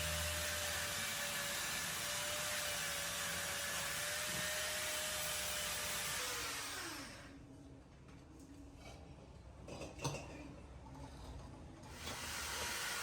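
A small electric power tool running with a steady whir and whine, then switched off about six seconds in, its pitch sliding down as the motor spins down, followed by a few faint clicks.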